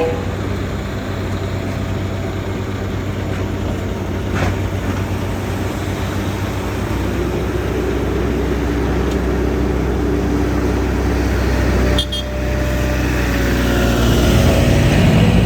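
Engines of heavy vehicles or machinery running, with a steady low hum that grows louder in the second half and drops briefly about twelve seconds in.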